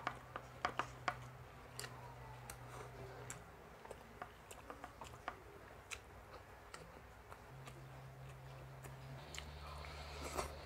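Faint chewing and mouth sounds of a person eating, with many short, sharp clicks scattered throughout.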